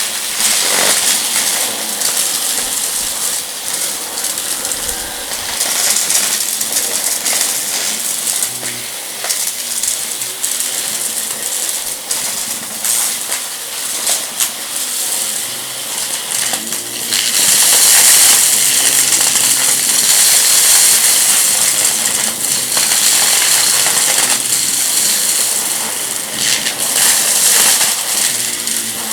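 Vacuum cleaner running over a rug and sucking up crunchy debris, with constant crackling and rattling as bits are pulled up the machine. The rattling gets louder for several seconds past the middle and again near the end.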